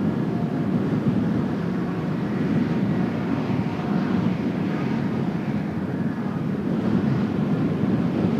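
Twin turbofan engines of Blue Impulse Kawasaki T-4 jet trainers running steadily, a continuous jet rumble with a faint wavering whine above it.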